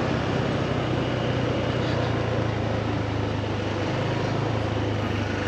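Steady wind and road noise while riding a belt-drive scooter, with a steady low engine hum underneath.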